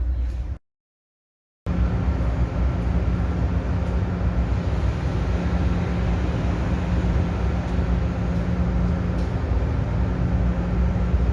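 Steady low drone of a car ferry's engines and onboard machinery, with a constant hum. It cuts out briefly about half a second in, then resumes unchanged.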